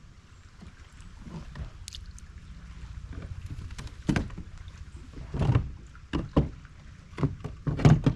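Irregular knocks and clunks on a kayak, over a low steady rumble of wind and water.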